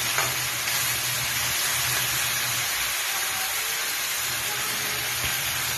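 Sautéed tomatoes, onion, garlic and ginger sizzling steadily in a frying pan, with a brief scrape of the spatula just after the start.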